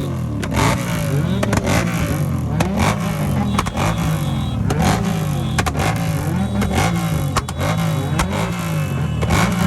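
Motorcycles with modified exhausts revved again and again, the engine note rising and falling more than once a second, with sharp cracks throughout.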